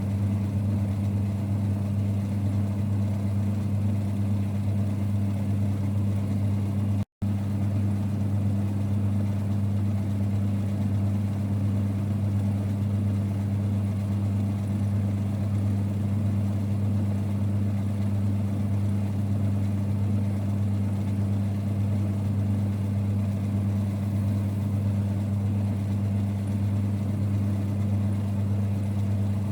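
1946 Boxford lathe running steadily with an even, low rumble. The sound cuts out for an instant about seven seconds in, then carries on unchanged.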